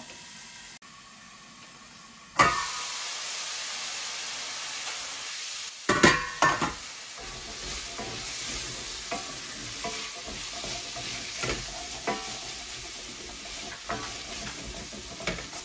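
Diced onions and carrots sizzling in oil in a stainless steel sauté pan while being stirred, with scraping and light knocks on the pan. The sizzle starts suddenly about two seconds in. A louder clatter against the pan comes about six seconds in.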